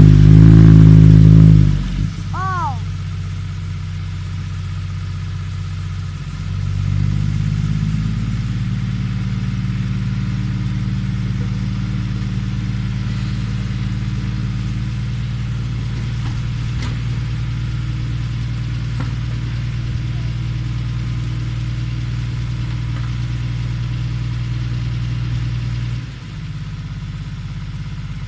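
Six-wheel dump truck's diesel engine running, loud at first, then falling back to idle about two seconds in. A few seconds later it settles at a steady, slightly raised speed that holds until near the end, as when the engine drives the hydraulic tipper to dump the load of soil.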